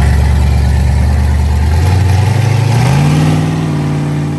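A Mopar car's engine running loud on a deep, steady note, then revving up in pitch about three seconds in as the car accelerates, holding at the higher engine speed.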